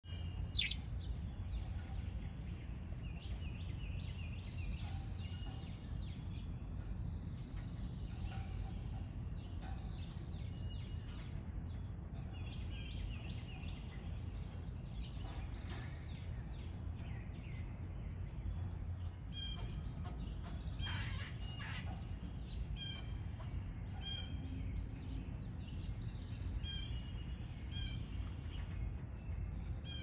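Several songbirds chirping and trilling, short high notes overlapping, busier in the second half. A sharp high note under a second in is the loudest sound. A steady low rumble lies underneath.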